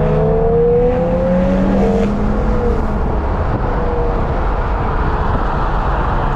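BMW N55 turbocharged straight-six running through a home-built intake while driving. Its pitch rises for about the first two seconds, then eases off over steady road noise.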